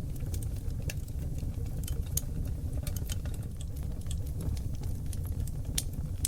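Wood fire of seasoned oak logs burning in a fireplace: frequent small irregular crackles and pops over a steady low rumble of the flames.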